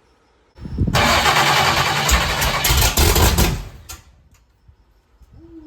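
Big-block V8 in a Chevy C10 on a first start attempt: it cranks and fires roughly for about three seconds, then cuts out without staying running.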